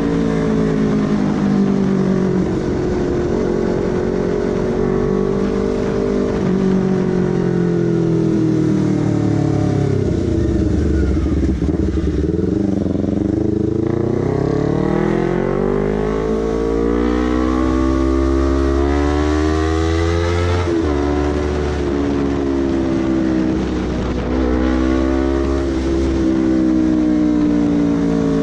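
Honda CBR250RR motorcycle engine and exhaust heard while riding, loud enough to drown out a voice. The revs rise and fall with throttle and gear changes, easing down to low revs about halfway through and climbing again, with a sudden drop in revs a little after two-thirds of the way in.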